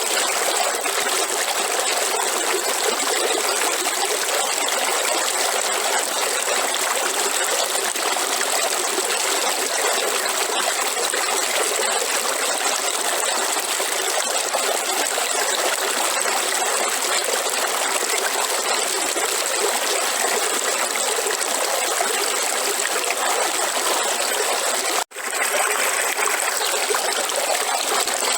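River water running and trickling over stones, a steady rushing wash. It cuts out for a split second about 25 seconds in, then carries on.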